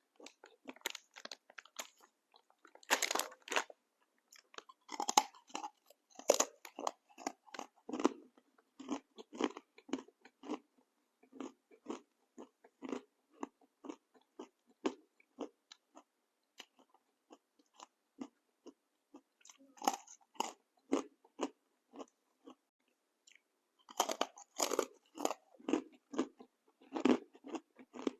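A person chewing a crunchy snack, most likely shakoy (Filipino twisted fried dough), close to the microphone: irregular crunches and chewing with brief pauses, in denser flurries near the start, around the middle and again near the end.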